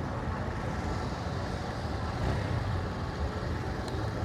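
Motorcycle on the move: a steady engine rumble mixed with wind and road noise on the camera's microphone.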